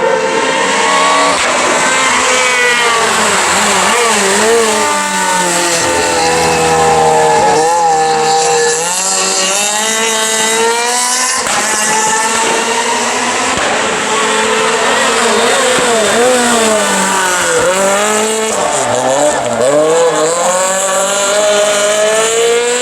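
Renault Clio R3 rally car's naturally aspirated four-cylinder engine at full throttle, revving hard, with the pitch climbing and dropping again and again through gear changes and braking.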